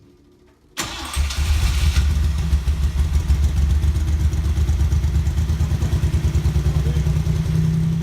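Freshly rebuilt 1976 Maserati Merak V6 engine starting: it fires and catches about a second in, then keeps running with a steady, pulsing note.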